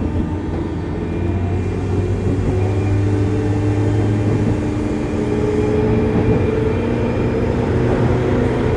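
Interior running sound of a JR West 201-series electric train, recorded in a motor car: steady rumble of wheels on rail with the hum of the traction motors and gearing as the train runs between stations.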